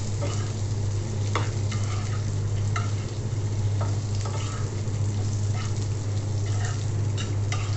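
Pointed gourd (potol) pieces sizzling in hot oil with onions and green chillies as a metal spatula stirs and turns them, clicking and scraping against the pan every second or so. A steady low hum sits underneath.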